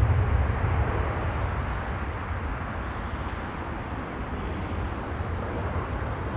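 Aircraft engine noise: a broad rumble, heavy at first, that eases over the first two or three seconds and then holds steady.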